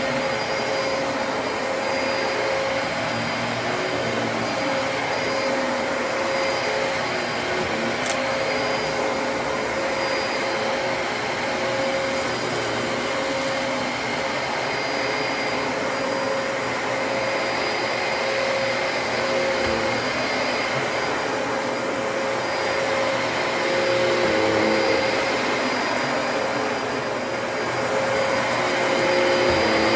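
Dyson DC33 upright vacuum cleaner running steadily, a motor whine over a continuous rush of air, with a single sharp click about eight seconds in.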